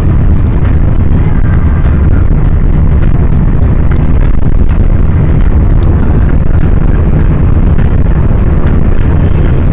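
Loud, steady low rumble of a rail vehicle running along the track, with wind buffeting the microphone.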